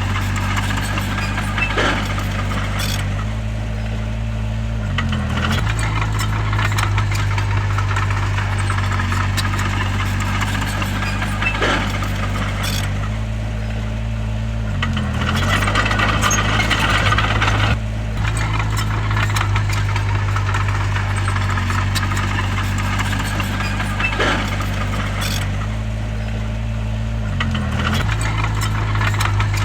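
Bulldozer's diesel engine running steadily under work, its note dipping briefly three times about ten seconds apart, with scattered metallic clanks and a louder rattling stretch a little past the middle.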